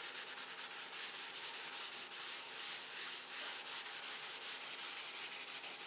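Cloth blending towel rubbing in small circles over a charcoal-covered sheet of drawing paper, a steady soft scrubbing with quick repeated strokes.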